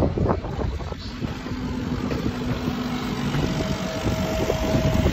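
Train running slowly, a steady low rumble with an engine-like hum. A thin held tone sits under it, then a higher one comes in about three and a half seconds in.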